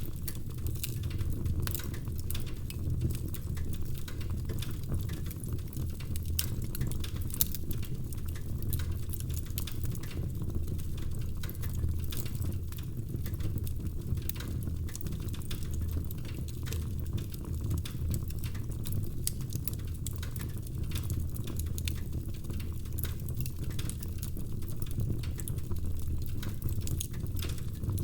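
Wood fire burning in a fireplace: a steady low rumble of the flames with dense, irregular crackling and small pops of the burning logs, one louder pop about seven seconds in.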